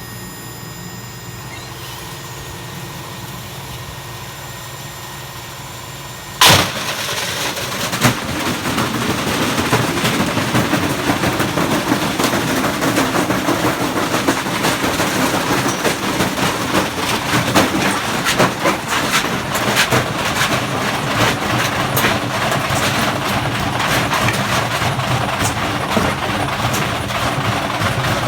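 Candy and Hoover washing machines, weighted with bricks, running hard: a steady motor hum at first, then a sudden loud bang about six seconds in, after which loud continuous rattling and repeated banging as the drums spin with the ballast and the machines shake and knock against each other.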